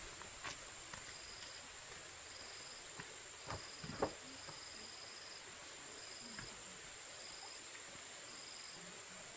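Insects calling: a steady high whine with a shorter high chirp repeating about once a second. A few sharp knocks cut in, the loudest about four seconds in.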